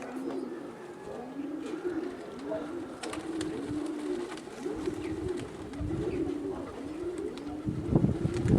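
Domestic pigeons cooing, a low coo repeated over and over. Gusts of wind buffet the microphone with a low rumble in the second half.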